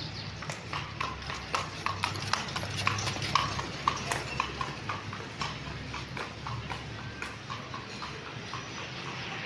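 A horse's hooves clopping at a walk, about three or four strikes a second, growing louder to about four seconds in and then fading.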